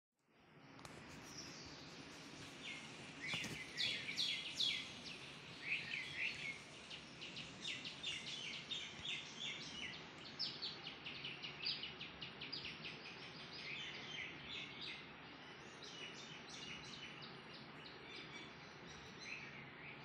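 Songbirds chirping and singing, with quick runs of short high notes, over a steady outdoor background hiss.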